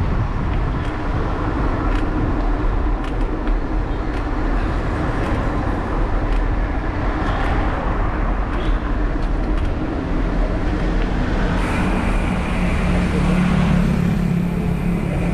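Road traffic noise with a constant low rumble. About twelve seconds in, a louder motor vehicle engine hum comes in and grows toward the end as the vehicle draws close.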